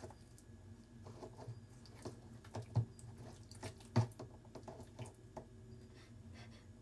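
Faint handling sounds of hot dango dough being mixed and kneaded in a bowl: scattered small clicks and taps, with two sharper knocks about three and four seconds in.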